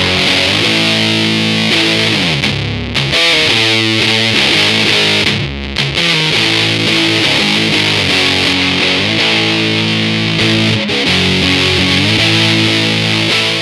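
Electric guitar played through a Big Muff-style fuzz pedal with the gain at maximum: sustained, heavily distorted chords and notes, with a quick run of rapidly repeated notes about four seconds in.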